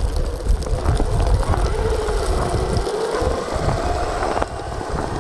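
A vehicle's motor running steadily with a low rumble and a faint whine that rises slightly midway.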